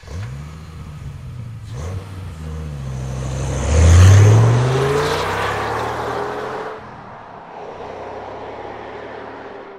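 A motor vehicle engine running and revving. It rises in pitch and is loudest about four seconds in, then eases to a lower, quieter run for the rest.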